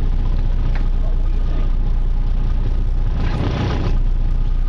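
A boat's motor runs steadily with a low rumble. About three seconds in there is a brief louder rush of noise.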